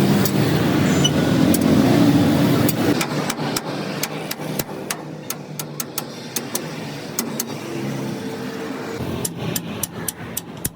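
Motor vehicle engine running close by, loud for about the first three seconds and then quieter, with a run of short sharp clicks or taps through the rest.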